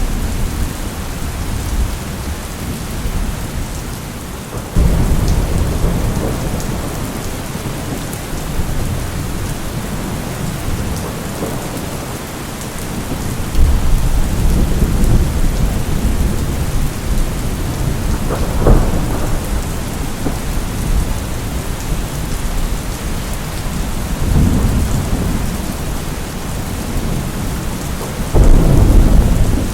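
Thunderstorm: steady heavy rain with rolls of thunder rumbling in again and again, one sharper crack about two-thirds of the way through and a loud rumble near the end.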